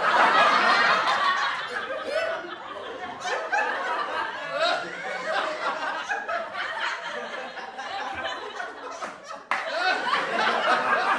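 Stock audience-laughter sound effect: many people laughing at once. It starts suddenly and loud, then eases off. About three-quarters of the way through it cuts off abruptly and a fresh burst of laughter begins.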